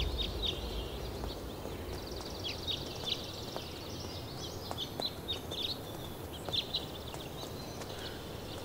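Birds chirping on and off in quick, high runs of notes over a steady outdoor background noise.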